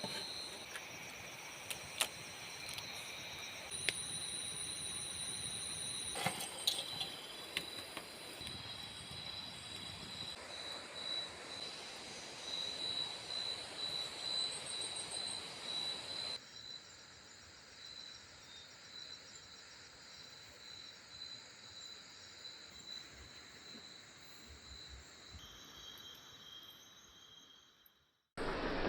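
Insects calling in a steady chorus of high-pitched trills over a faint hiss, the mix of calls changing abruptly a few times.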